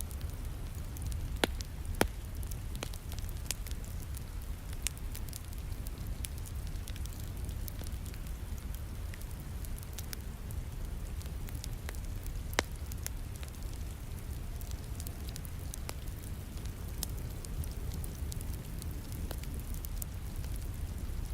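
Wood fire crackling in a fireplace, with sharp pops at irregular intervals, the loudest about two seconds in and near the middle, over a steady rain hiss.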